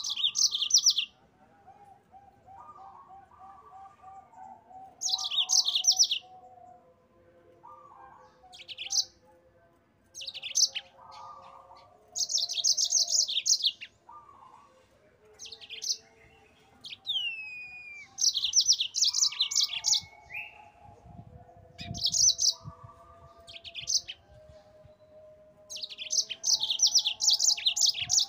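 Yellow-fronted canary (mozambik) singing in bursts of rapid, high trills about a second long, repeated every couple of seconds, with a falling whistle a little past the middle. Fainter, lower warbled notes fill the gaps between bursts.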